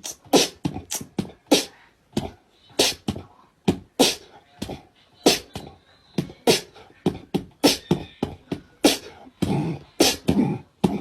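Beatboxing: rapid mouth percussion of sharp clicks and puffs in an uneven rhythm, with a few deeper pitched hits near the end.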